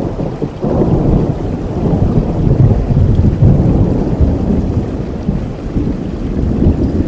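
Rolling thunder over steady rain. The low rumble swells about half a second in, is loudest in the middle, and slowly eases off toward the end.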